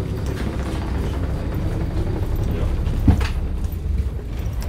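Steady low rumble of a stopped passenger train's onboard machinery, heard from inside the carriage while the doors stay shut, with a single sharp knock about three seconds in.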